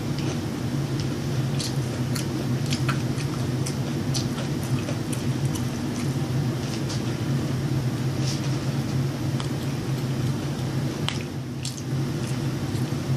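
Close-up mukbang eating sounds: a person biting and chewing food, with irregular wet mouth clicks and crunches. A steady low hum runs underneath.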